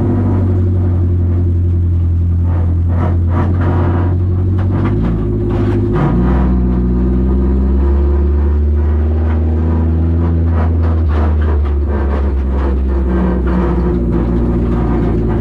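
Toyota Camry demolition derby car's engine running steadily on a test drive, its engine note shifting to a new pitch about five to six seconds in.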